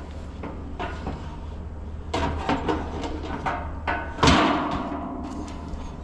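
Scattered knocks and clanks of things being handled, with one loud ringing clang about four seconds in, over a steady low hum.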